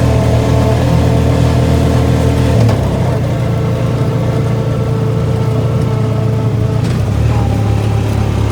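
ATV engine running steadily while riding. The engine eases off and gets a little quieter about a third of the way in, then picks up again near the end.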